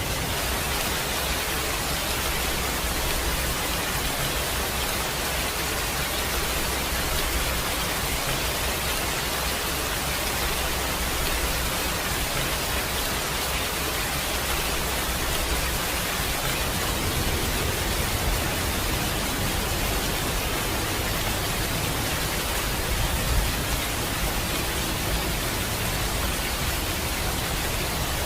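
Steady rain, an even hiss without break or change.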